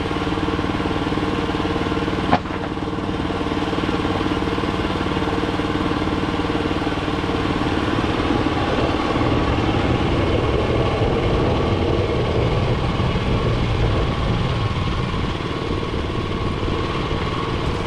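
Woodland Mills HM126 portable bandsaw mill running steadily, its gas engine driving the band blade through a white oak cant. There is a short click about two seconds in, and a deeper rumble comes in about halfway through.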